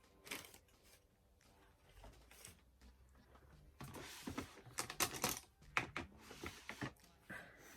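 Makeup containers being handled and picked through, a run of light clicks and clatters, sparse at first and bunched together about halfway in.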